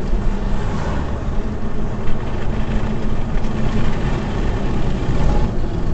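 Steady vehicle engine and road rumble, as picked up inside a moving car, with no distinct events.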